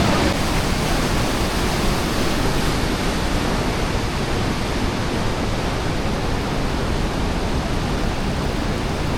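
Steady rushing noise, even from low to high pitches, with no distinct events.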